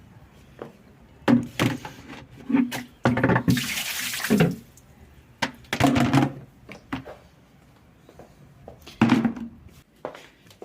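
Kitchen items being handled and set down in a run of knocks and clatters, with a rushing pour lasting about a second and a half near the middle.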